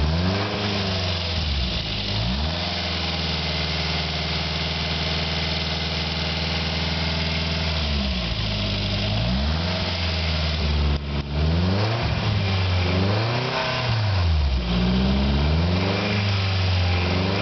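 Caterham Roadsport 125's four-cylinder engine running on its first start, held steady for several seconds and then blipped, its revs rising and falling several times in quick succession.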